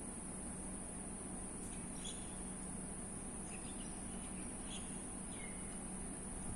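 A few short, faint bird chirps scattered through the middle, over a steady high-pitched hiss and a low hum.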